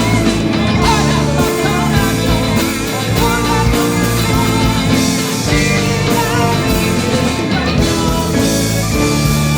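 Live rock band playing a song with a singer, with drums, bass, electric guitars and keyboard.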